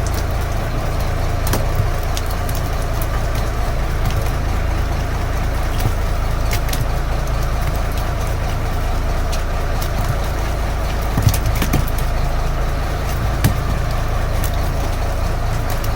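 Fishing boat's engine running steadily at idle, with a few light knocks scattered through it.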